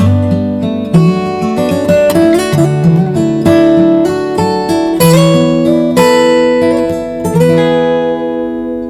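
Acoustic guitar playing an instrumental passage of a slow ballad, plucked and strummed chords with ringing notes, dying away near the end.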